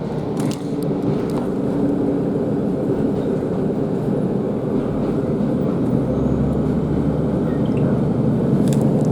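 Inside a Class 150 Sprinter diesel multiple unit under way: a steady rumble of the underfloor diesel engine and wheels on the rails, with a few light clicks near the start and near the end. The low rumble grows a little stronger about six seconds in.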